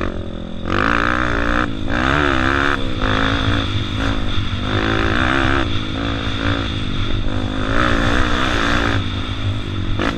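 Honda CRF230 dirt bike's single-cylinder four-stroke engine being ridden hard, its note rising and falling with the throttle in a run of surges.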